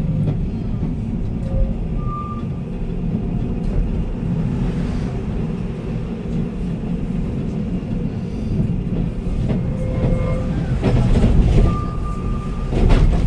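Heritage electric tram running along its rails, a steady low rumble with a few brief high squeaks. A cluster of clacks comes near the end.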